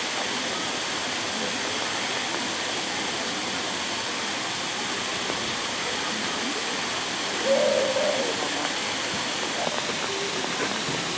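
Steady rushing of falling water, like rain, with a short high-pitched call rising above it about seven and a half seconds in.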